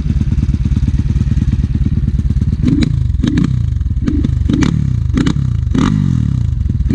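Enduro motorcycle engine running at a steady idle, then blipped repeatedly from about three seconds in, each short rev rising and dropping back, roughly every half second to second.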